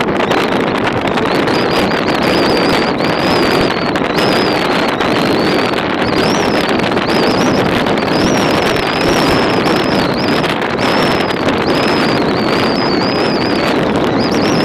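Snowstorm wind buffeting the microphone: a loud, steady rushing. From about a second and a half in, a thin high whistling tone wavers up and down in pitch over it.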